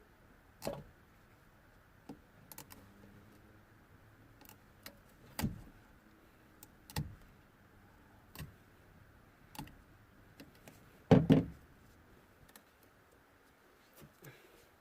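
Scattered clicks and knocks of hand work on a car's wiring harness as its insulation is cut open and the wires handled, with a louder double knock about eleven seconds in.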